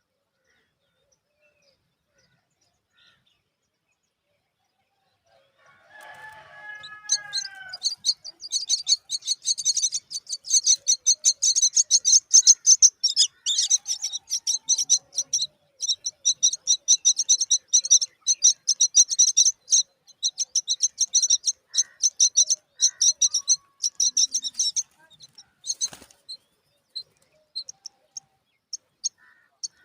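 Baby myna birds begging to be fed: a short call, then rapid, high, continuous chirping for most of the time, thinning to scattered chirps near the end. A single sharp click comes about three-quarters of the way through.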